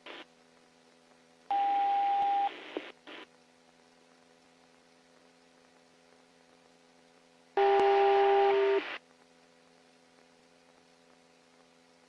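Two-way police radio keyed twice without speech: about a second of static hiss carrying a steady beep tone, and about eight seconds in a second such burst with a lower tone. The channel is nearly silent between the bursts apart from a short click.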